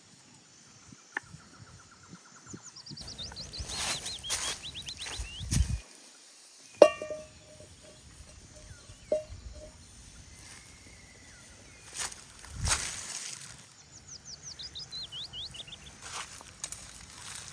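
A bird calling twice in runs of quick falling notes, over rustling footsteps. About seven seconds in there is a sharp clink that rings briefly, with a softer one about two seconds later.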